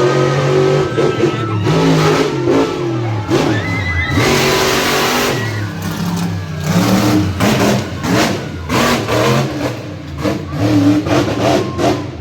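Monster truck engine revving hard, its pitch climbing and dropping again and again through a freestyle run. About four seconds in there is a dense burst of noise lasting a second or so.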